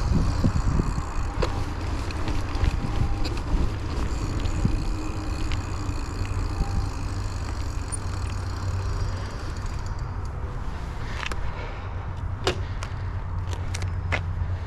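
Raleigh Trailblazer hardtail mountain bike riding over an off-road trail, heard from a chest-mounted camera: a steady low rumble of tyres and wind with scattered clicks and rattles from the bike, a few sharper ones in the last few seconds.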